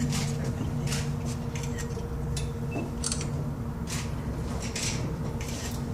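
Steady low hum inside a moving aerial tram cabin, with light clicks and rattles scattered through it, roughly one every half second to a second.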